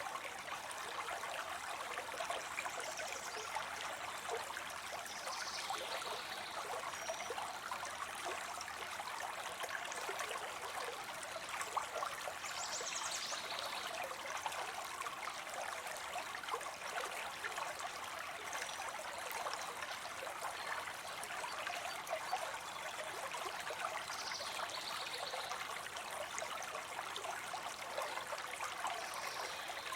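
Water spilling into a pond, a steady splashing and trickling. A few brief, faint high chirps come now and then.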